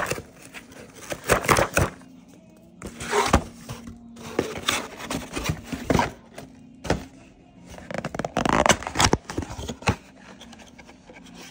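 Irregular bursts of crunching from a leafy salad being chewed close to the microphone, with music underneath.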